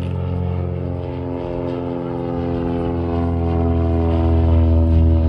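Light propeller aircraft engine running steadily, growing louder over the last few seconds.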